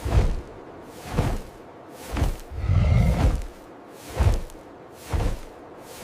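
Slow, heavy footsteps crunching through deep snow, about one step a second, with one longer, drawn-out step near the middle.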